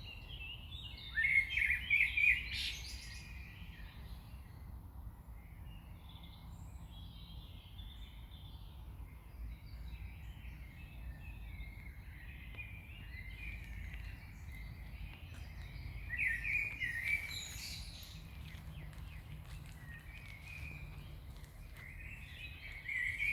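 Songbirds singing in a forest, with louder bursts of song about a second in, midway and near the end, over a steady low rumble.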